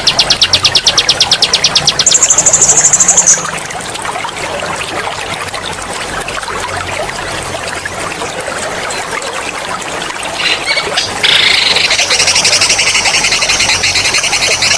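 Songbird singing fast rolling trills: a rapid pulsing trill for the first two seconds, then a shorter, higher trill, and after several seconds with only the trickling water underneath, another loud trill from about ten seconds in. A steady trickle of running water runs beneath the song.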